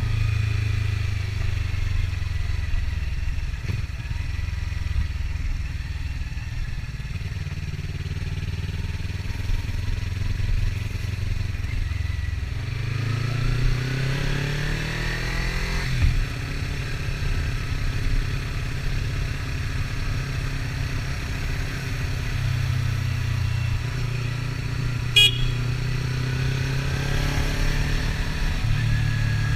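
Kawasaki Ninja 300's parallel-twin engine running on the move, its revs climbing in a rising sweep about halfway through, then settling. A brief high chirp stands out near the end.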